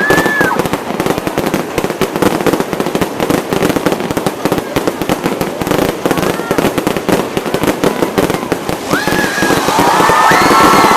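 Fireworks display: a dense, continuous barrage of crackling bangs. A whistle rises at the start, and several overlapping whistles arc up from about nine seconds in.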